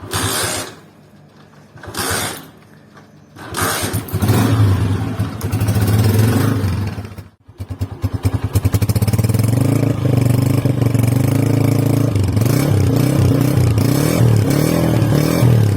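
Brand-new 2021 Honda CG 125's air-cooled single-cylinder four-stroke engine being started: two short kick-start strokes, then it catches about three and a half seconds in and is revved. After a brief dropout a little past halfway it runs steadily again, with a few light throttle blips near the end.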